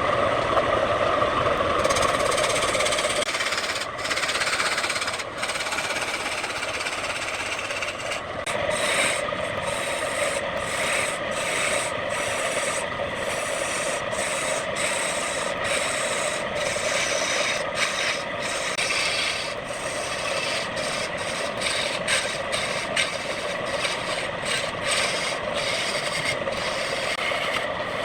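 Wood lathe running with a tool or abrasive rubbing against the spinning wood: a steady hum under a rough rasping hiss. From about a third of the way in, the hiss is broken by many brief gaps.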